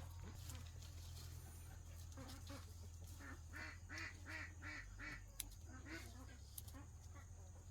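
Farm poultry calling: a quick run of short repeated calls, about three a second, strongest around the middle.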